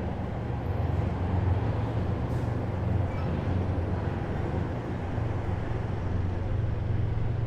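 Heavy military vehicles' engines running in a column, a steady deep rumble with no single vehicle standing out.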